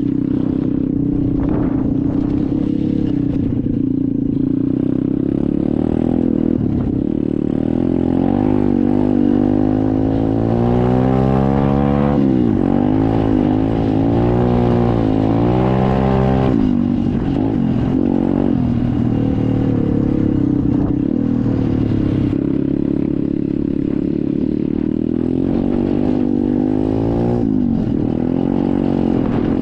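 SSR 125 dirt bike's single-cylinder four-stroke engine running while riding, with the revs rising and falling repeatedly through the middle stretch and once more near the end.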